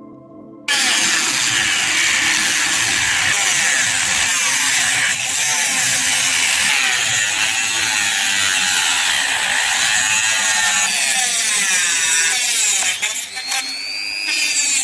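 Power tool working steel: a loud, steady grinding noise that starts suddenly about a second in and cuts off abruptly. Near the end a rising whine appears.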